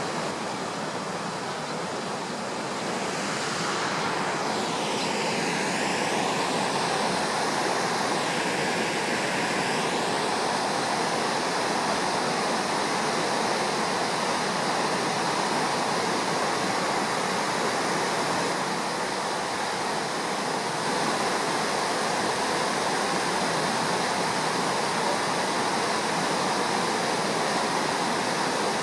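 Steady rush of a swollen, flood-muddied river running fast after a typhoon. A brief sweeping whoosh falls in pitch a few seconds in.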